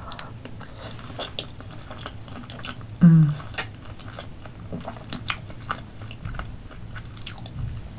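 A person chewing a mouthful of soft roasted potato, with many small mouth clicks, and a short hum about three seconds in.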